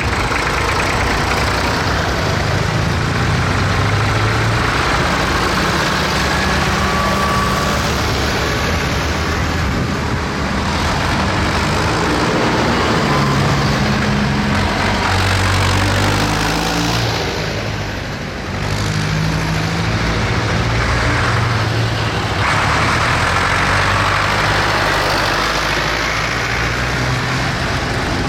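Tractor engines running, a steady diesel hum whose note shifts up and down now and then.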